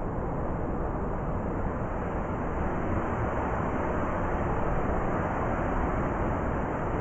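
Blizzard wind blowing as a steady, deep rush of noise that swells slightly partway through.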